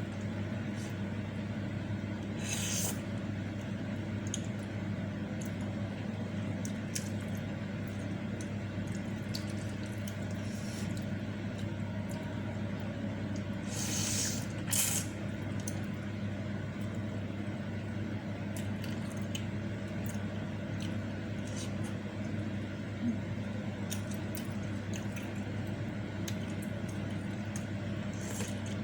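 Close-miked eating of meatball soup and noodles: wet chewing and lip smacks with scattered small clicks, and a couple of louder slurps, one about three seconds in and one near the middle, over a steady low hum.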